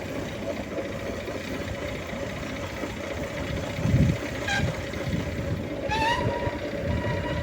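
A horn sounding a held note from about six seconds in, rising briefly and then steady, over a steady low rumble.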